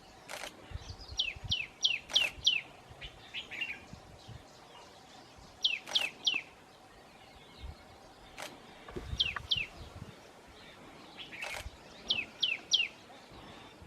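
Common tailorbird calling: four bursts a few seconds apart, each of three to five sharp, quickly repeated notes that sweep downward in pitch. A few sharp clicks fall between the bursts.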